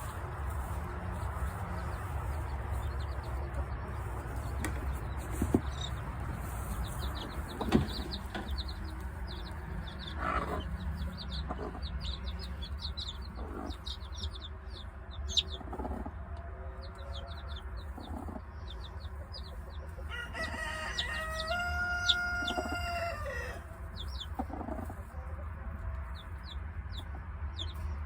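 Chickens clucking, with one long rooster crow lasting about three seconds near the end, over steady high chirping from small birds and a low rumble.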